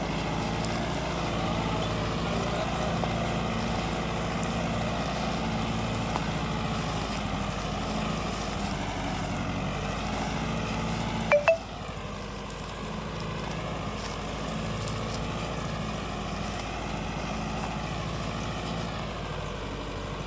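Kubota tractor's diesel engine running steadily. About halfway through, a brief loud double blip cuts in over it, and afterwards the engine sounds slightly quieter.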